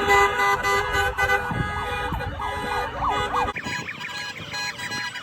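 A siren wailing up and down over sustained tones. About three and a half seconds in, the low end drops out and it changes to a faster, higher repeating warble.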